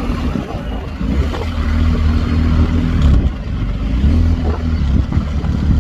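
BMW R1250 GS motorcycle's boxer-twin engine running while riding along the road, with steady wind and road noise; the engine note shifts slightly a few times.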